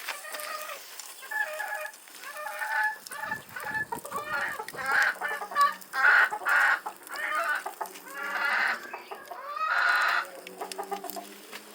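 Chickens calling: a run of short clucks, then several louder, longer calls through the second half.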